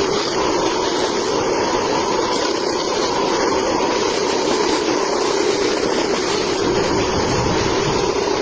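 Mini band saw running steadily, with a constant motor and blade hum.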